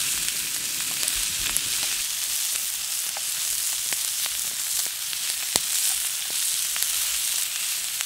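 A pan of vegetables and ćevapčići sizzling over a campfire: a steady frying hiss with scattered pops.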